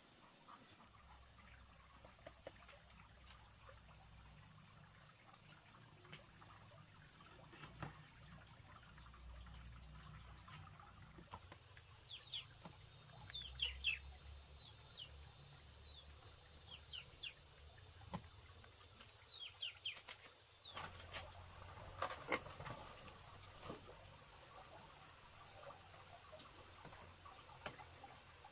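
Quiet outdoor ambience with short, high bird chirps that drop in pitch, in little runs through the middle, and a few soft knocks.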